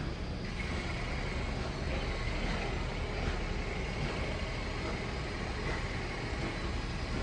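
A stationary train idling at the platform: a steady low rumble with a thin, steady high whine that comes in about half a second in.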